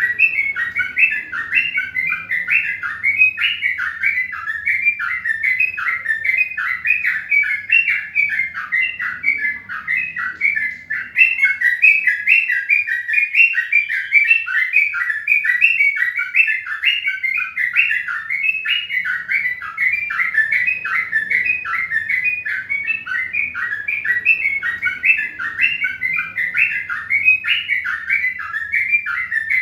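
Small birds chirping rapidly and continuously, several short notes a second without a break.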